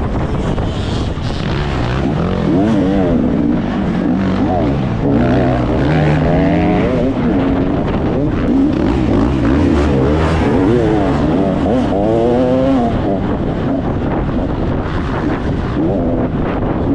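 Motocross dirt bike being ridden on the track, its engine revving up and dropping back again and again as it is worked through the gears.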